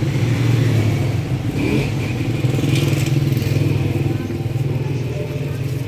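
A motor vehicle's engine running steadily with a low, even pulsing.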